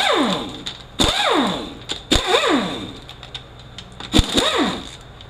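Pneumatic impact wrench spinning out loosened 12 mm transmission cover bolts in four short bursts. Each burst ends in a quickly falling whine as the air motor winds down.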